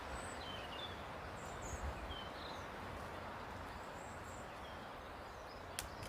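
Small birds giving short, scattered chirps over a steady outdoor hiss, with a single sharp click near the end.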